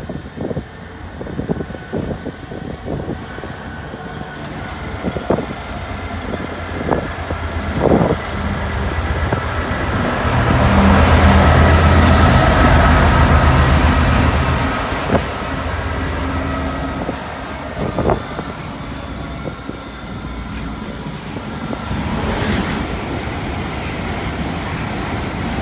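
Diesel freight locomotive passing close by, its engine loudest about ten to fourteen seconds in, then a rake of tank wagons rolling past with a steady rumble and scattered sharp clacks of wheels over rail joints.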